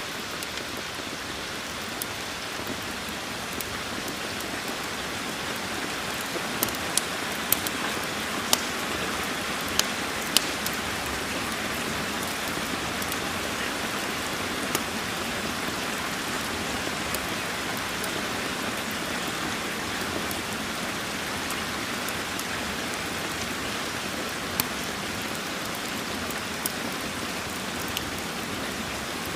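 Steady rain, with scattered sharp crackles from a wood fire, several of them bunched about seven to ten seconds in.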